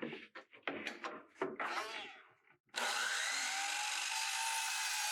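Wooden boards knocking and scraping as they are handled, then a power saw switches on about three seconds in and runs steadily at speed with a whine.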